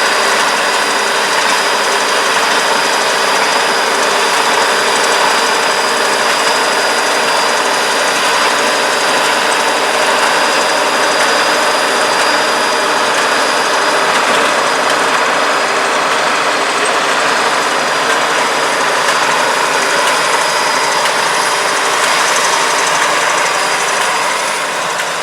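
International 1256 Turbo tractor's turbocharged six-cylinder diesel running steadily under load while driving a 430 small square baler, with the baler's machinery running and a steady high whine throughout. It fades off slightly near the end.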